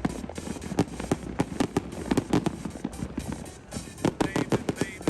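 Fireworks and firecrackers going off in a dense, irregular run of sharp pops and cracks, thickest near the end, with music underneath.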